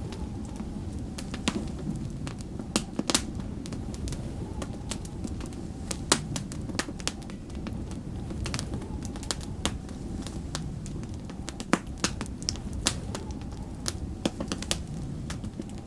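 A wood fire in a fireplace crackling, with frequent irregular sharp pops and snaps over a steady low rumble.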